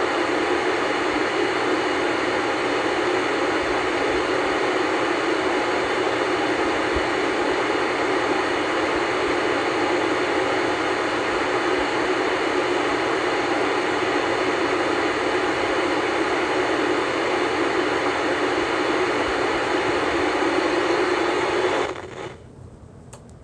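Static hiss from an old black-and-white tube TV tuned to no channel, steady and even. It cuts off abruptly near the end as the set is switched off, leaving only faint background hiss.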